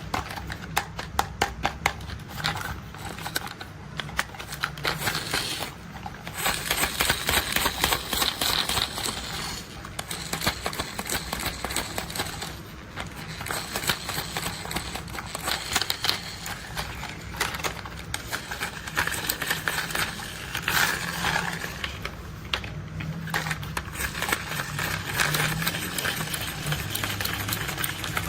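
Plastic toy construction vehicles being handled: rapid clicking and rattling, in uneven clusters with brief lulls.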